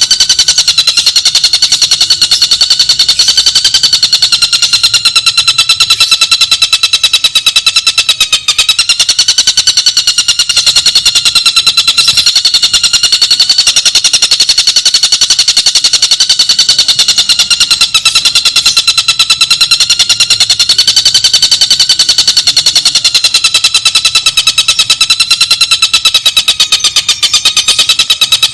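Tengkek buto birdsong played from a training recording: a loud, unbroken, very rapid trill of even pulses on a steady pitch that wavers slightly, with no pause.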